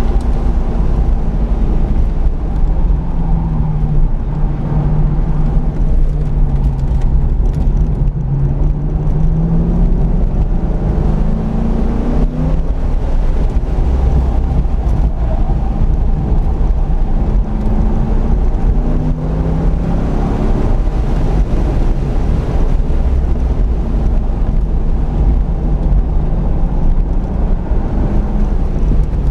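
C5 Corvette Z06's V8 engine heard from inside the cabin at speed on a track, its pitch falling and rising several times as it slows for and accelerates out of corners, over a steady heavy rumble of road and wind noise.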